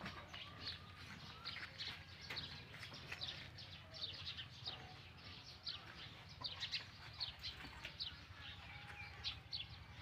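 Birds chirping: many short, high calls, several a second, over a faint steady low hum.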